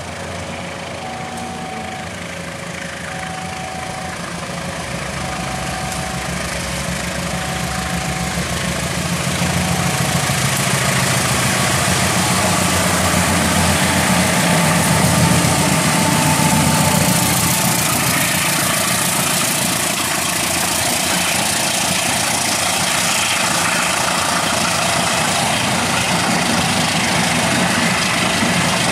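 Diesel locomotive of a passenger train approaching and passing, its engine sound building to its loudest about halfway, then the coaches rolling by on the rails. For about the first nine seconds a level-crossing warning alarm sounds in two alternating tones, then stops.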